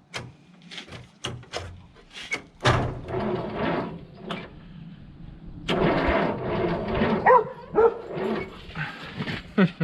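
Old Allis-Chalmers tractor's electric starter cranking the engine in two short tries after a few clicks, so slow to crank that the starter is suspected; a dog barks a few times near the end.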